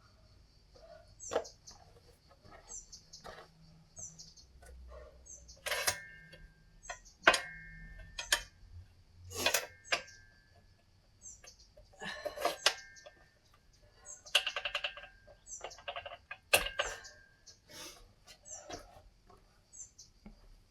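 Sharp metallic clinks and clanks of dumbbells and their plates, several of them ringing briefly, spaced a second or more apart. Underneath, a bird repeats a short high chirp about once a second over a steady high hiss.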